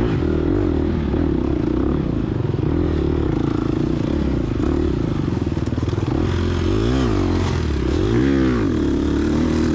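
Gas Gas EX250F four-stroke single-cylinder dirt bike engine running under throttle, its revs rising and falling twice in the last few seconds.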